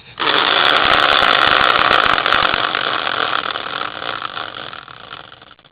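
Prize wheel spinning, its pointer clicking rapidly against the pegs in a dense rattle that fades away over about five seconds as the wheel slows to a stop.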